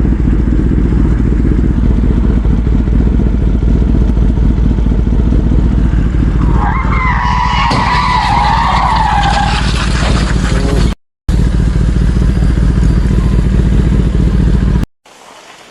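Loud, steady vehicle rumble with skidding tyres squealing in a wavering tone for about three seconds, starting some six seconds in. The sound drops out briefly and then cuts off sharply near the end.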